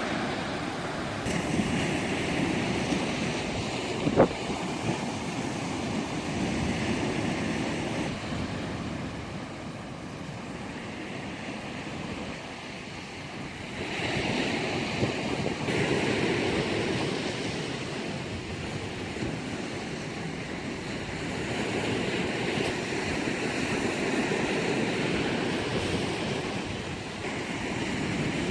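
Sea waves breaking and washing on the shore, the surf rising and falling in swells every several seconds, with wind on the microphone. One sharp click about four seconds in.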